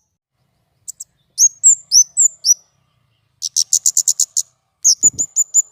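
A small songbird chirping in short phrases separated by brief pauses. It gives a run of high, swooping chirps, then a fast trill of about ten notes a second, then more sharp repeated chirps.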